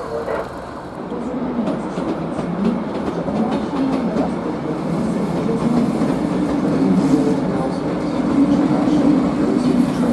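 A train rolling through the station, with a steady low hum that grows slightly louder and wheels clicking over rail joints.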